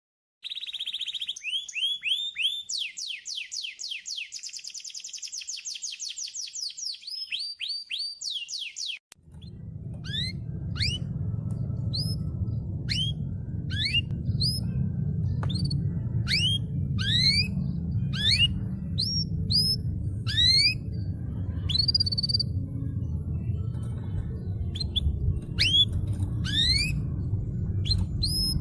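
Domestic canary singing: fast trills of rising chirps repeated in rapid runs. About nine seconds in, the recording cuts. After that a steady low hum runs underneath while the bird gives single rising chirps about a second apart.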